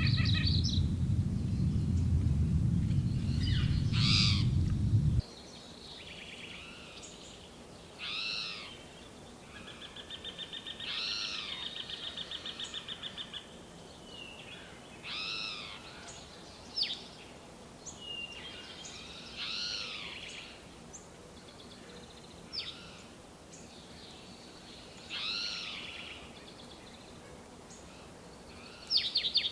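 Wild birds singing: clear, arching whistled notes repeated every few seconds, with a rapid trill lasting about three seconds in the middle. For the first five seconds a loud low rumble runs under them and then cuts off suddenly.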